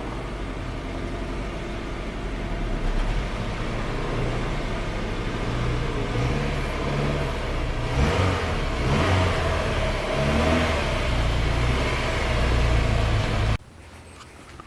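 Honda Fit's engine running and pulling, its low hum rising in pitch from about halfway through. It cuts off suddenly near the end.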